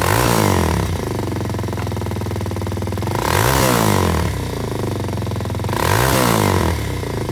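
2021 Kawasaki KLX230R's single-cylinder four-stroke engine idling just after starting, with the throttle blipped three times, each rev rising and falling back to idle.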